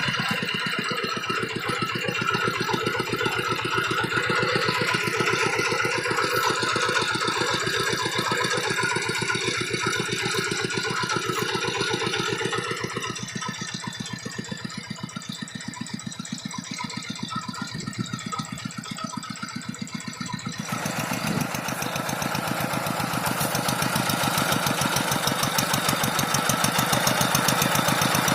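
Paddy-field tractor's engine running steadily, with evenly spaced rapid firing pulses. It grows quieter about halfway through, then louder and brighter again for the last third.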